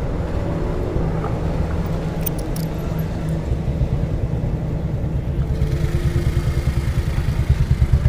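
Broad-gauge railway coaches of an inspection train rolling past close by, a steady low rumble of wheels on rail. From about six seconds in the rumble takes on a fast, regular pulsing.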